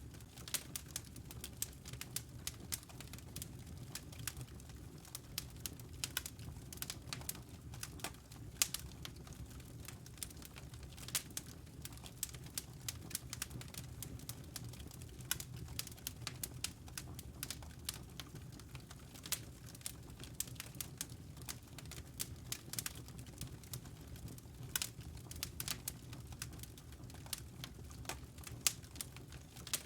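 Wood fire burning in a fireplace: a steady low rumble of flames with irregular sharp crackles and pops scattered all the way through.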